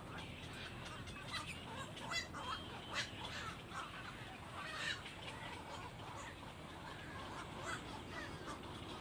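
Birds calling in short, scattered chirps and squeaks, with a quick rattling call about two seconds in, over a steady low background hum.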